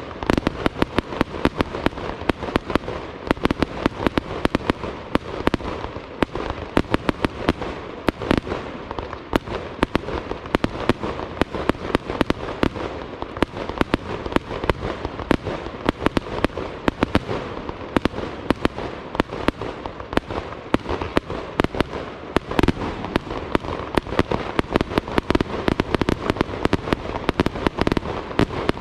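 Fireworks display: a dense, unbroken barrage of sharp bangs, many a second.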